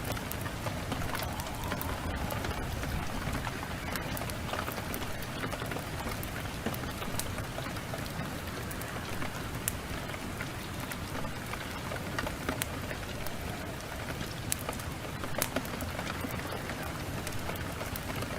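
Steady heavy rain mixed with a crackling wood fire, with frequent sharp pops and snaps scattered through it.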